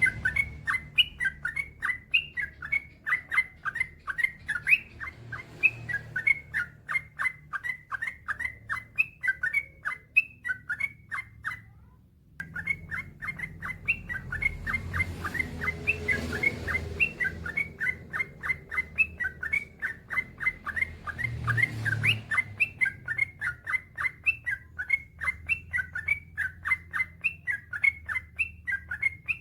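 Yellow-vented bulbul (trucukan) singing a long, fast run of short repeated notes, about four a second, pausing for about a second some eleven seconds in before carrying on.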